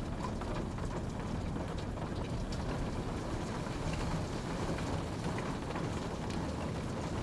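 Steady rain falling, with a dense low rush and scattered small drop ticks on a surface.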